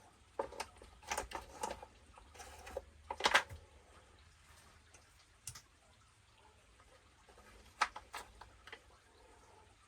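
Light clicks and knocks of small parts and tools being handled on a workbench. A cluster comes in the first two seconds, the loudest knock a little past three seconds, and another few clicks near eight seconds.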